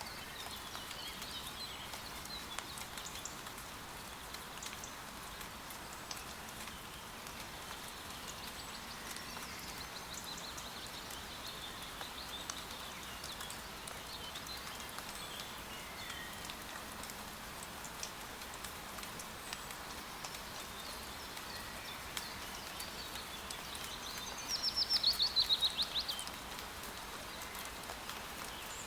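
Steady rain falling through forest, with scattered drips and soft bird chirps. About 24 seconds in, a bird gives a loud, fast trill of about a dozen notes that falls in pitch over roughly a second and a half.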